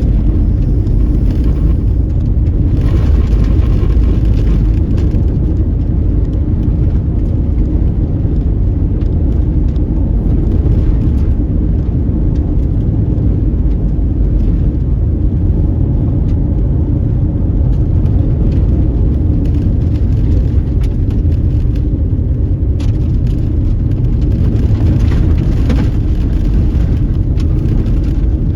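Car driving on a dusty dirt road: a steady low rumble of tyres and engine, with light scattered ticks.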